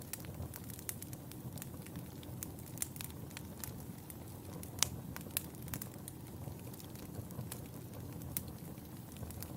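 Wood fire in a fireplace crackling: a low steady rumble of burning with many irregular sharp pops and snaps, one louder pop near the middle.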